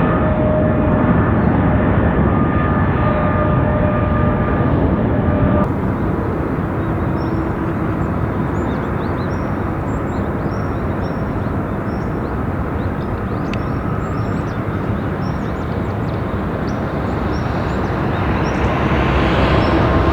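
Boeing 777 jet engines running, a loud steady rushing noise with a whining tone in the first few seconds. The sound changes abruptly about six seconds in to a steadier rush with faint high chirps, and it grows louder again near the end.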